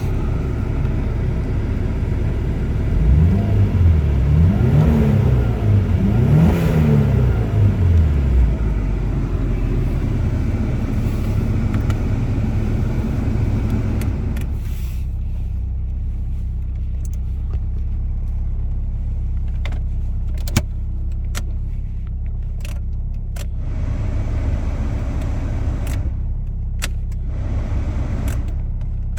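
Subaru 2.5-litre flat-four engine heard from inside the cabin, revved up and back down about three times a few seconds in, then idling steadily. From about halfway on come scattered sharp clicks from the dashboard HVAC controls being worked.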